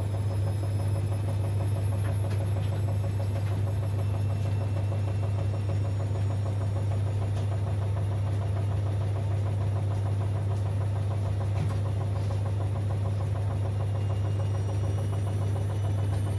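Siemens Extraklasse XLs 140 A washing machine running a 60 °C cottons programme, a steady low hum with no pauses or changes.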